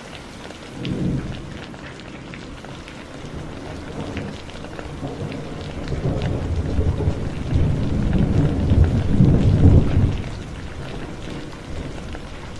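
Heavy rain falling steadily with the patter of individual drops, under rolling thunder: a brief low rumble about a second in, then a longer rumble that builds over several seconds, swells to its loudest and dies away before the end.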